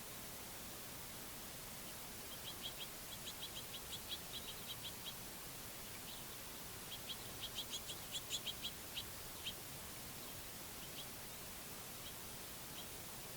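Songbird calling: a run of quick, short, high chirps, about four or five a second, then after a short pause a second run, and a few single chirps near the end, over a faint steady hiss.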